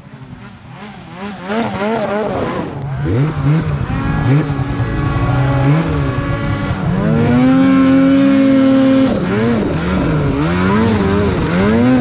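Turbocharged two-stroke snowmobile engine (Polaris Patriot Boost) revving in repeated quick throttle blips, held at a higher rev for about two seconds near the middle, through a BoonDocker Sidekick stock-exit muffler. It runs a little louder than stock but not obnoxiously.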